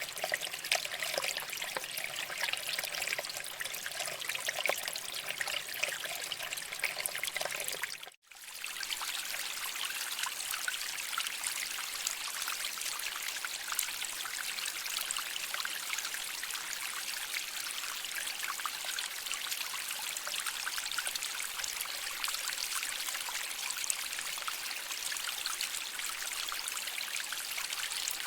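Shallow stream water flowing and trickling over rocks, a continuous rushing babble. About eight seconds in it cuts out for a moment and comes back with a thinner, brighter hiss.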